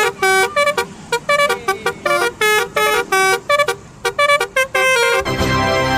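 Basuri telolet bus horn playing a quick tune of short, changing-pitch notes, about four or five a second, then a longer held blast near the end.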